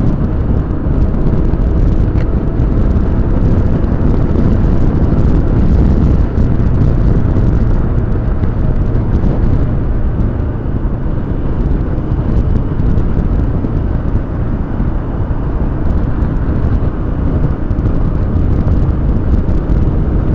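Motorcycle on the move: a steady, loud rush of engine, road and wind noise, mostly low, with no break or change in speed.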